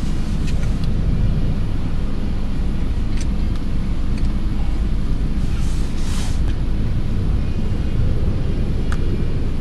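Steady low rumbling background noise, with a few faint clicks and two brief hisses about halfway through.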